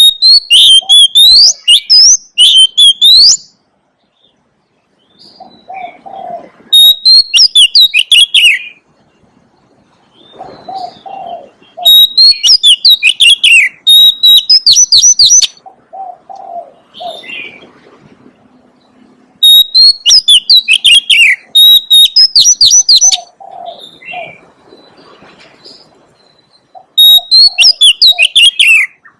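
Oriental magpie-robin singing: five loud phrases of rich whistles and rapid trills, a few seconds apart. Softer low cooing notes fall in the gaps between phrases.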